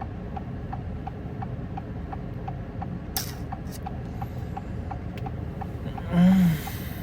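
A car's hazard-flasher relay ticking steadily, about three clicks a second, over a low steady rumble, from a car stopped with a flat tire. A little after six seconds a person lets out a short voiced sound.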